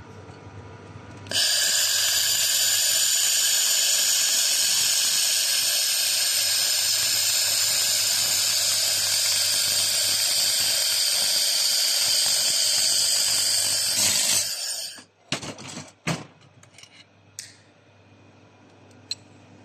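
A 2 kW water-cooled welding machine with a wire feeder making one continuous weld: a loud, steady high hiss and whine that starts about a second in and cuts off after about fourteen seconds. A few clicks and knocks follow.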